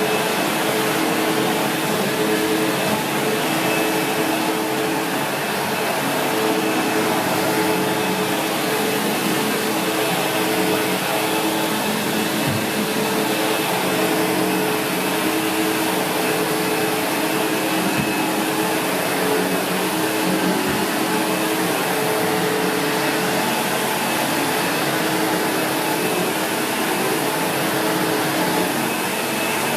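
Vacuum cleaner running steadily: a continuous motor hum with a faint high whine, broken by a few light knocks.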